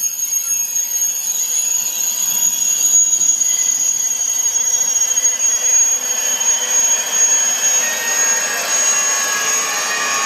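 Electric train running on the rails with a loud, high steady whine, joined in the second half by several other high tones that shift in pitch.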